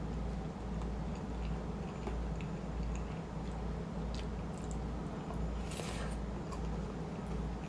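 Close-miked chewing of shrimp chili and rice: a steady rhythm of soft, wet jaw-and-mouth sounds about twice a second, with scattered small clicks and a short hiss about six seconds in.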